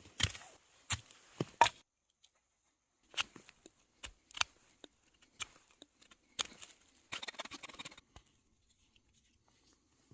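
Small handling sounds of crafting a firestarter by hand: a string of sharp clicks and knocks, then a stretch of dense scratchy rustling about two-thirds of the way through.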